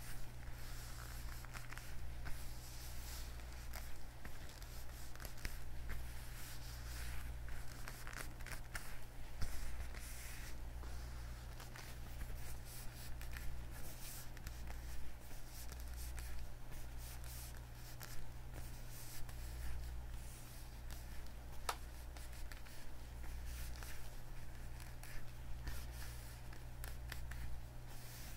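Leather gloves worn on the hands, rubbed and flexed close to the microphone: a continuous irregular rubbing and creaking of leather with small sharper strokes.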